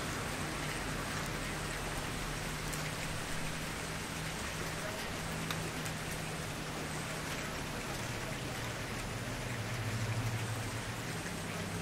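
A wood campfire burning with a steady hiss and a few faint crackles and pops, over a low hum.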